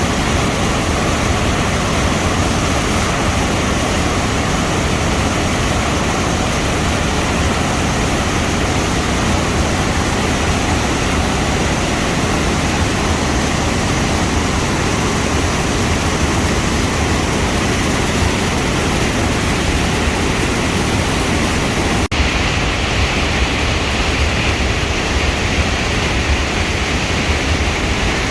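Floodwater pouring over a waterfall: a loud, steady rush of falling water, with a brief break about three-quarters of the way through.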